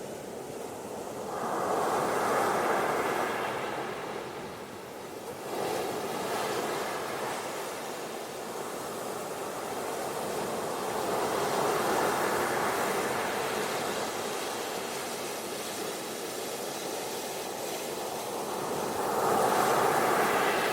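Ocean surf on a beach: waves breaking and washing in, the rush swelling and fading in slow surges about four times.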